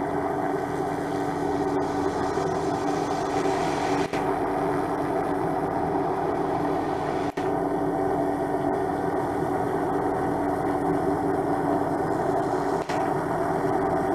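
MD500 helicopter in a hover: steady turbine whine and rotor noise, broken by brief dropouts about four, seven and thirteen seconds in.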